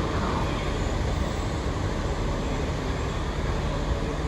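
Steady railway station background noise with a low, even engine hum, typical of diesel trains running at the platforms.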